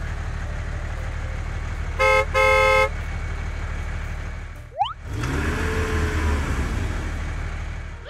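Tractor engine sound effect running steadily, with a horn tooting twice about two seconds in, a short toot then a longer one. A quick rising swish comes about halfway through, and the engine carries on after it.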